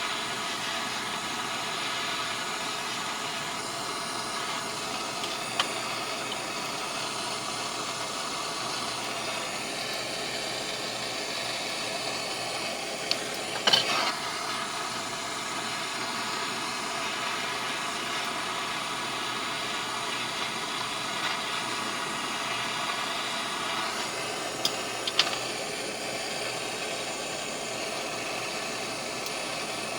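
Electric welding arc hissing and crackling steadily, with a few louder sharp clicks along the way.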